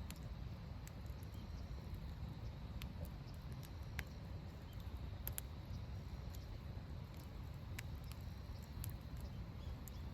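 Wood fire crackling in a fire pit: scattered sharp pops and snaps, a few seconds apart, over a low steady rumble.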